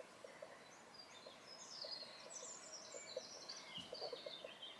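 Faint birdsong: quick high chirps and twittering, with the window otherwise near quiet.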